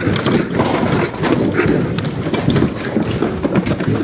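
Continuous clatter and rumble of rolling bins and merchandise being moved and rummaged through, many small knocks and rattles over a low rolling rumble.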